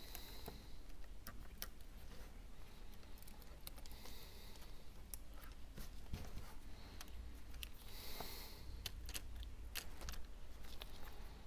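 Light, irregular clicks and taps of small repair tools and parts on an iPhone 12 being taken apart, as its flex cables are disconnected.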